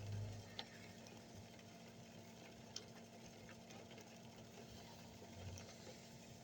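Near silence: faint background with a steady low hum and a few soft, isolated clicks.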